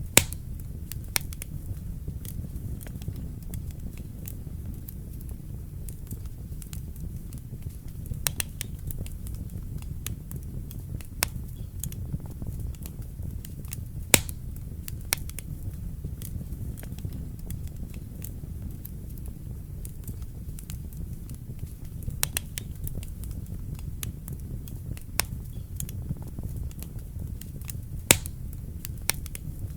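Wood fire burning in a fireplace: a steady low rumble of the flames with irregular sharp crackles and pops, a few louder snaps standing out among them.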